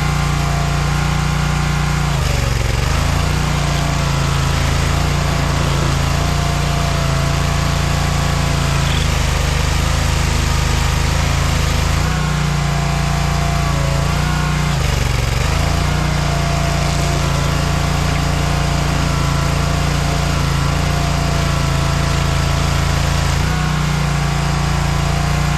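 Stump grinder's gas engine running steadily at high speed, its pitch sagging briefly about four times as the cutter wheel bites into the stump.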